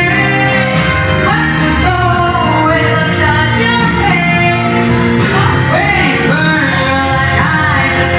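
A solo singer performing a pop ballad over an instrumental backing of sustained chords and bass, the voice sliding between held notes.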